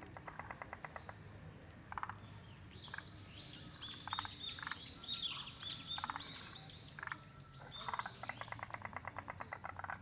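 Frogs calling in rapid rattling trains of clicks, one about a second long near the start and a longer one near the end, with short rattles between. A songbird sings quick, high, falling notes over them from about three seconds in until near the end.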